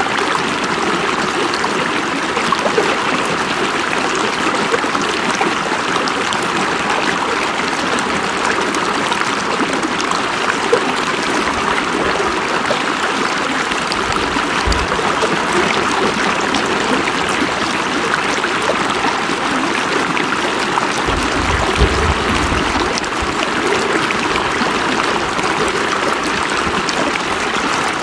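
A river flowing steadily over rocks, a constant rushing and splashing of water, with a couple of brief low rumbles in the middle and toward the end.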